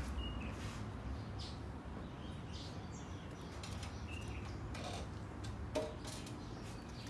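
Quiet background with a few faint, short bird chirps and occasional soft knocks of handling, one a little louder near the end.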